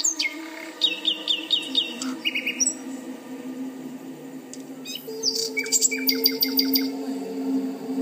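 Birds chirping: a run of five quick, repeated down-slurred notes about a second in, then a burst of rapid chirps from about five to seven seconds in. Low steady droning tones run beneath them.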